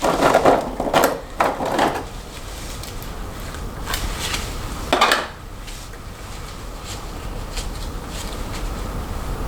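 Plastic snap-on hair rollers and hair being handled close to the microphone: a few rustling, clattering bursts in the first two seconds and one more about five seconds in, with a faint steady hiss between.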